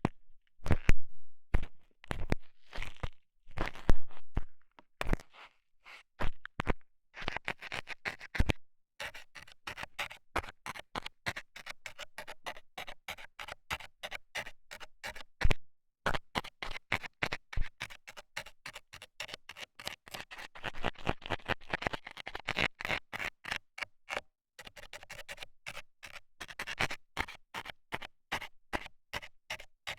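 Metal scaler tool scraping and jabbing at a binaural microphone's ear, close and scratchy. The strokes come singly at first, then turn to rapid repeated scratching several times a second, with a brief pause about halfway through.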